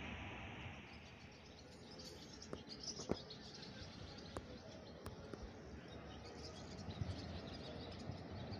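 Faint birds chirping over quiet outdoor background noise, with a few sharp clicks around the middle.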